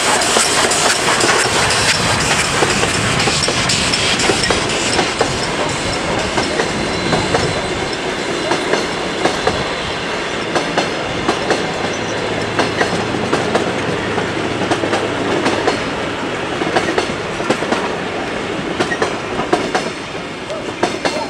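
A steam-hauled train running on the rails, its wheels clacking over the rail joints amid a dense rumble. The sound eases off over the last couple of seconds.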